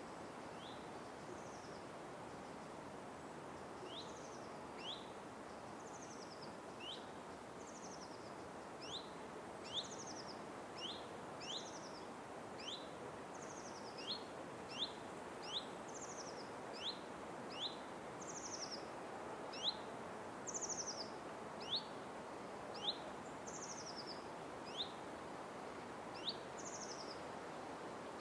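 Birds calling over and over in a forest, with short sharp rising chirps alternating with higher buzzy, down-slurred notes, about one or two a second. The calls sit over a steady background hiss of forest ambience.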